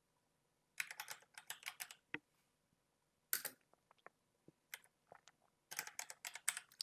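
Computer keyboard typing: a quick run of keystrokes about a second in, a few scattered single keys, then another quick run near the end, as a terminal command is typed.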